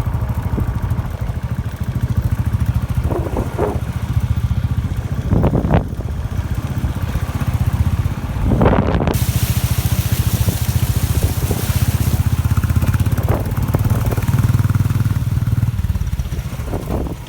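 Motorcycle engine running steadily under way, with wind rushing over the microphone from about halfway through.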